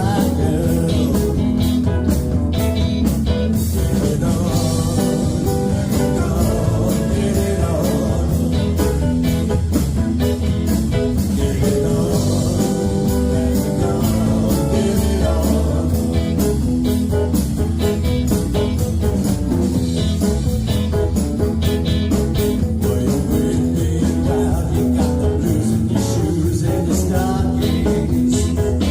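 Live band playing a blues-rock number with guitar and a steady beat.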